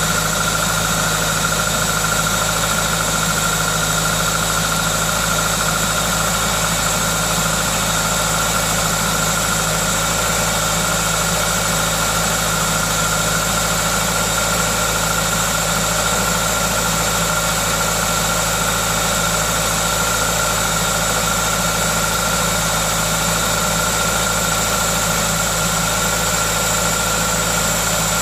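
Toyota 2ZZ-GE 1.8-litre four-cylinder engine idling steadily, running normally, with a hiss from an aftermarket induction kit over the engine note.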